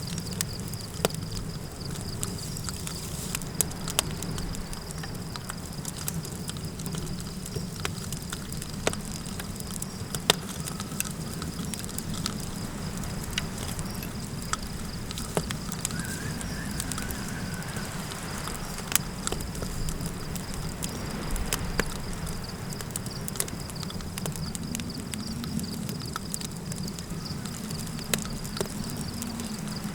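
Campfire crackling with scattered sharp pops over a low, steady rush of wind and fire, under a steady high-pitched tone.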